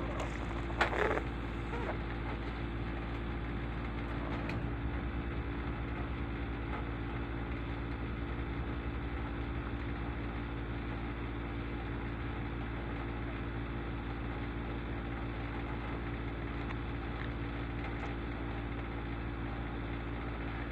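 Steady low mechanical hum, with a brief rustling noise about a second in.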